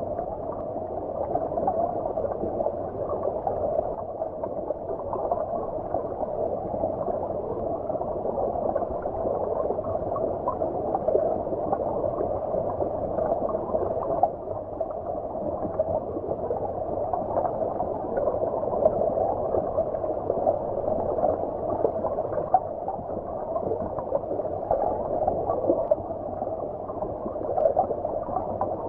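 Stream water running and gurgling, heard muffled as if from underwater: a steady, dull wash with no bright splashing or hiss.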